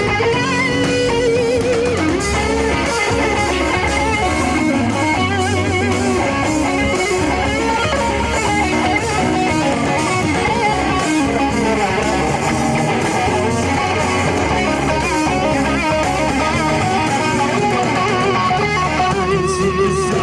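Rock band playing an instrumental passage live: a lead electric guitar line with wavering, vibrato-bent notes over bass and drums with cymbals.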